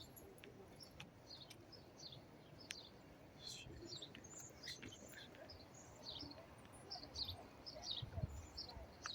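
Faint, repeated chirping of small birds, several short high calls every second, with a few soft clicks.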